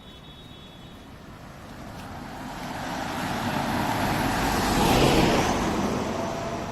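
A road vehicle passing by: its noise swells over a few seconds, is loudest about five seconds in, then fades away.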